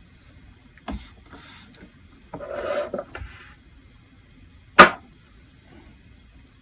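Small handling noises of manicure tools and bottles: a light tap, a brief rubbing rustle, then one sharp click, the loudest sound.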